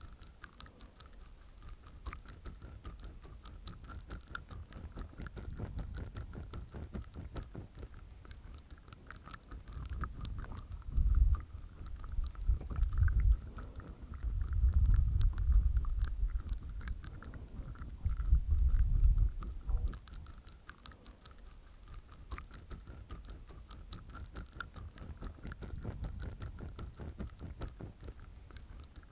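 Close-miked ASMR mouth sounds from inside the mouth: a rapid run of small wet tongue and teeth clicks, with a few louder, low muffled stretches in the middle.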